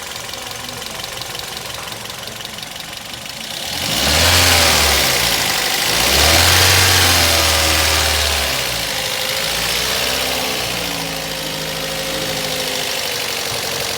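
Toyota GLi car engine idling, then revved twice about four and six seconds in before settling back toward idle. The sound is a bad one, which the mechanic puts down to the tappets (valve clearances) needing adjustment.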